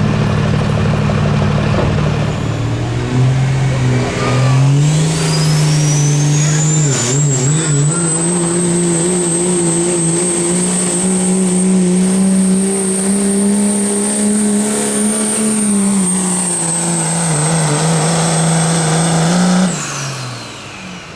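A competition pulling vehicle's engine runs hard at high revs under load through a pull. A high whine climbs as the revs build and then holds steady. About twenty seconds in, the engine and the whine drop away together as the throttle comes off.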